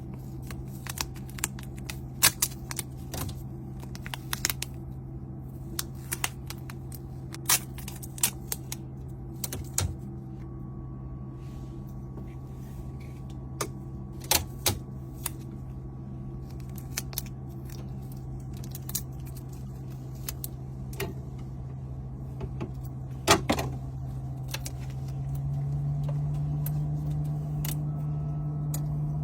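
A steady low hum runs throughout and steps slightly higher and louder about 25 seconds in. Over it come scattered sharp clicks and taps, like small objects being handled and set down.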